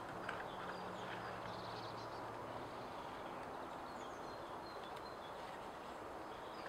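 Outdoor ambience: a steady background hiss with faint, scattered bird chirps and a faint low hum during the first few seconds.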